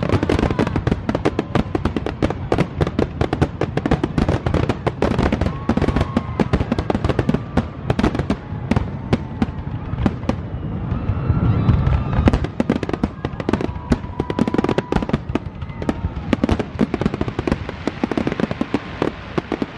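Aerial fireworks finale: a dense, continuous barrage of bangs and crackles, many per second. A deep rumble swells about eleven seconds in and then cuts off.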